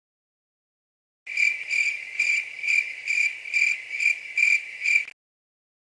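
Stock sound effect of crickets chirping: a steady high trill that swells about two and a half times a second, the comedy cue for an awkward silence. It starts abruptly and cuts off about four seconds later.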